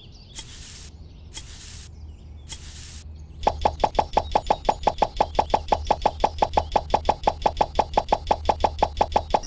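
A few short hissing bursts about once a second, then from about three and a half seconds a fast, even run of sharp knocks, about six a second.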